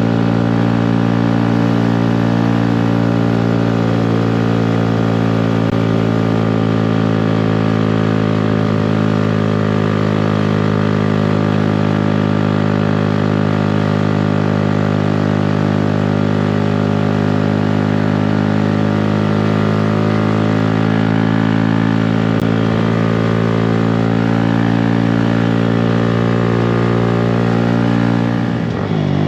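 2018 Honda Grom's 125 cc single-cylinder four-stroke engine, breathing through a Yoshimura exhaust, running at a steady held speed under way. Its pitch falls sharply near the end.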